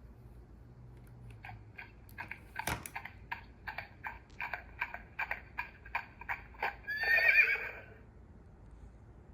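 Blue Box Blue Ribbon Champions toy horse's sound chip playing a recorded horse effect through its small speaker: hoofbeat clip-clops at about three a second, then one loud neigh near the end. The effect plays right through, as it does once the loose battery-to-board solder joint has been re-soldered.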